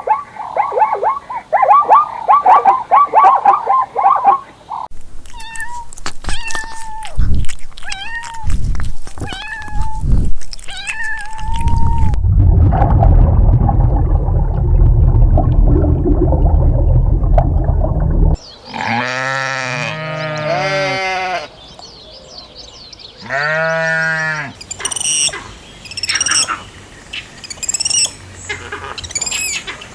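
A run of different animal calls cut one after another: quick high calls at first, then a loud low rumbling stretch in the middle, then separate long calls that rise and fall in pitch, like bleats or meows, in the last third.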